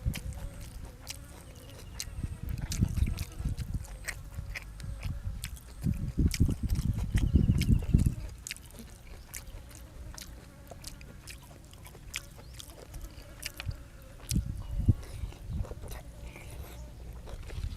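A person chewing food close to the microphone, with many sharp wet mouth clicks and smacks and several heavier bouts of low chewing.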